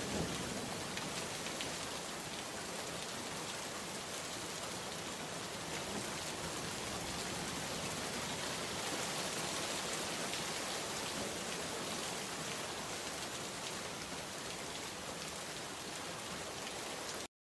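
Heavy rain pouring steadily onto a flooded paved yard: a dense, even hiss of falling drops and splashes. It cuts off abruptly near the end.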